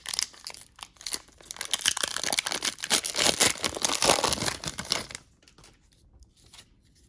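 Trading-card pack wrapper crinkling and tearing as a pack is ripped open and the cards are handled, a dense crackle that stops about five seconds in, followed by a few faint clicks.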